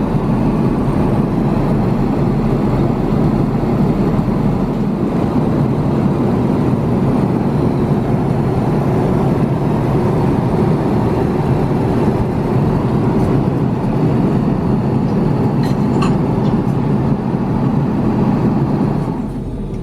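Steady in-flight cabin noise of an Airbus A350-900: a constant rush of airflow and engine drone, heaviest in the low range, with a couple of faint clicks.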